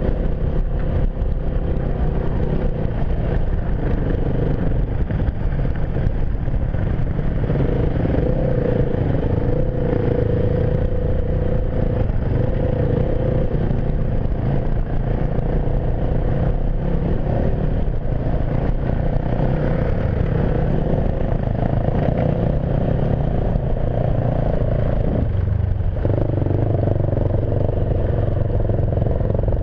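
Enduro dirt bike engine running while riding, a steady engine note with clatter and scraping. The note changes briefly about 25 seconds in.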